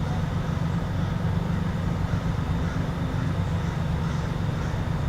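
Steady low rumble of a running vehicle, with no sharp sounds.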